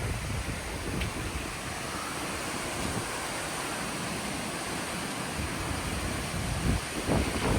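Strong post-storm wind gusting and buffeting the microphone with a low rumble, getting louder in a stronger gust near the end.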